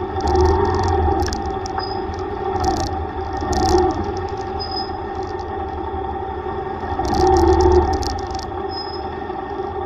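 Yamaha YTX125's single-cylinder engine running under way, swelling twice as it picks up speed, with a light rattling clatter over it.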